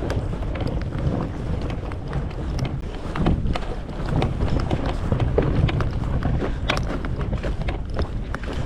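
Footsteps walking, an irregular run of short taps, over a steady low rumble of wind on the microphone.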